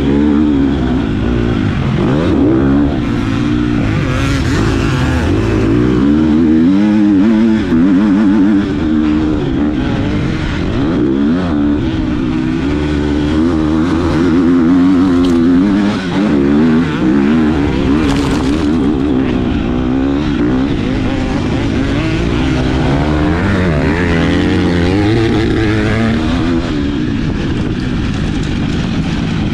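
Motocross bike engine revving hard, its pitch rising and falling again and again as the throttle opens and closes through the gears.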